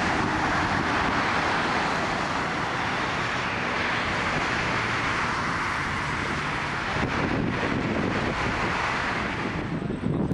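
Boeing 777-300ER's twin GE90-115B turbofans: a steady jet roar as the airliner passes the runway, easing slightly toward the end.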